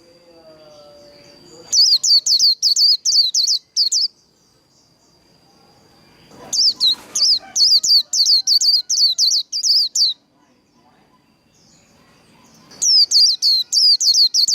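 White-eye singing its rapid trilled 'líu' song in three bursts, each a fast run of high, down-slurring notes at about four a second. A thin steady high tone carries on between the bursts.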